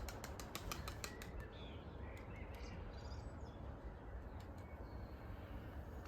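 Racing pigeons flapping their wings: a quick run of sharp claps through the first second and a half, then a few scattered ones, with faint chirps among them.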